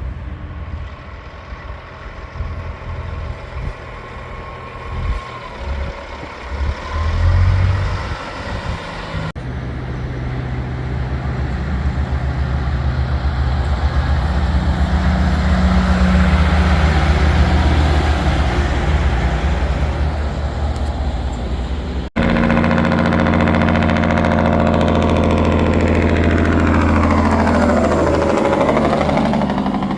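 Diesel big-rig truck engines in three cut-together clips: a truck rumbling at a distance, then after a cut a truck's engine growing steadily louder as it draws near, then after another cut a truck running loudly as it passes close by.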